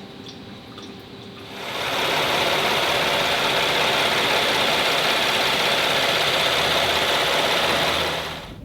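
Steady mechanical running noise that starts about a second and a half in and cuts off near the end.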